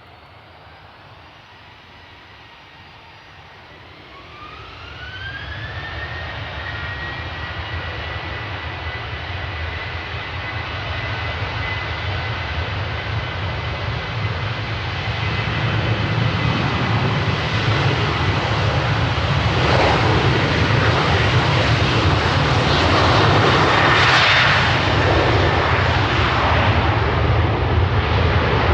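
Jet airliner's engines spooling up on the ground before takeoff: a whine rises about four seconds in and settles into a steady high tone, over a rumble that grows steadily louder.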